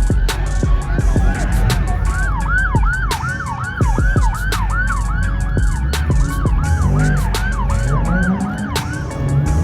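Yelp-pattern siren, its pitch sweeping up and down about three times a second, over hip-hop music with heavy bass and a steady beat; the siren fades out near the end.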